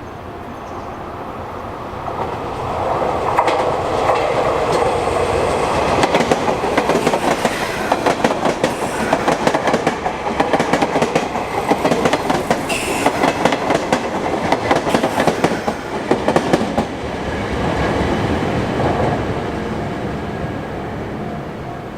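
Sotetsu Line electric train passing close by: a rumble swells from about two seconds in, then fast clickety-clack of wheels over rail joints runs until about seventeen seconds and fades away. A steady ringing tone of the level-crossing warning bell shows at the start and again near the end.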